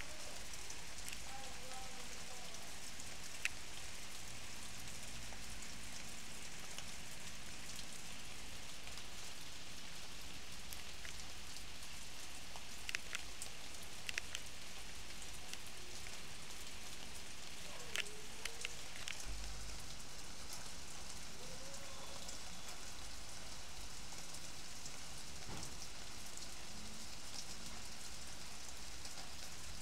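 Steady rain falling on leaves and wet grass, an even hiss throughout. A few sharper taps of single drops stand out, several of them around the middle.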